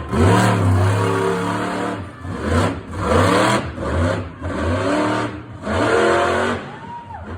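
Monster truck engine revving hard in several surges, each climbing in pitch before the throttle comes off briefly.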